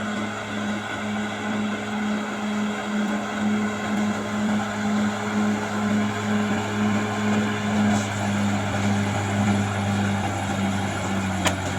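Caterpillar D6R XL bulldozer's diesel engine running steadily under work, with an even pulsing throb, and one sharp click near the end.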